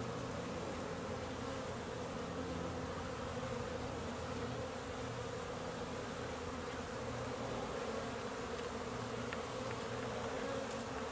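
Honeybees buzzing in a steady swarm-like hum as many fly around the hive entrance on cleansing and orientation flights.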